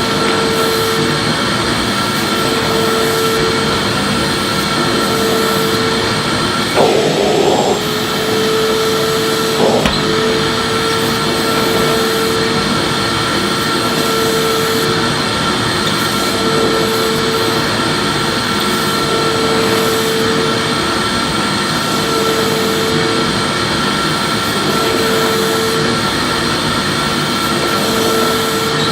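Electric vacuum cleaner running continuously with a steady whine, a humming note in its sound fading in and out every couple of seconds as it is worked back and forth. A brief louder scuff about seven seconds in and a short knock a few seconds later.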